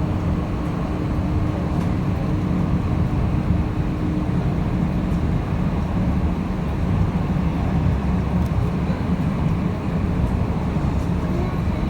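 Durmazlar İpekböceği tram in motion: a steady low rumble of wheels on rail and running gear, with a faint steady hum that fades out about five seconds in.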